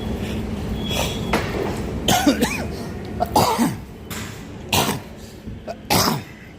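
Several short coughs at uneven gaps from about two seconds in, over a low rumble that fades after the first two seconds.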